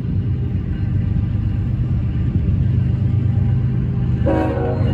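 Diesel locomotives of an approaching freight train, a steady low rumble. About four seconds in, the locomotive's horn sounds in one short blast.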